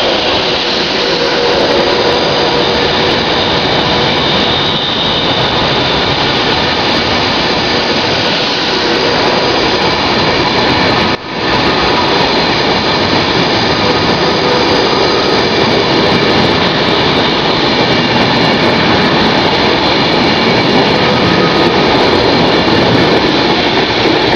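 Virgin Class 390 Pendolino electric train running past close by at speed: a loud, steady rushing of wheels and air, with one short break about eleven seconds in.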